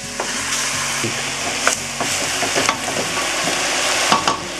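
Raw chicken pieces sizzling in hot oil in a pot with sautéed garlic, onion and bell peppers, a steady hiss. The pot is stirred with a wooden spoon, with a few sharp knocks.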